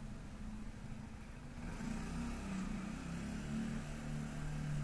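Benelli motorcycle engine running at low speed, a steady low drone that rises and falls slightly in pitch.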